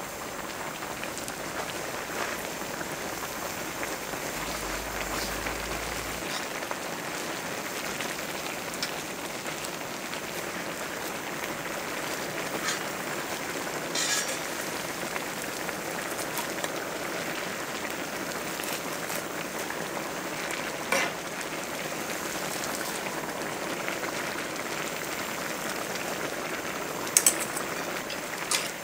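Steady rain falling, an even patter throughout, with a few sharp clicks now and then, the loudest a quick pair near the end.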